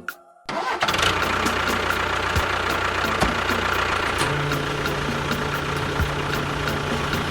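A vehicle engine starting up after a brief silence and then running steadily at idle. A deeper steady hum joins about four seconds in.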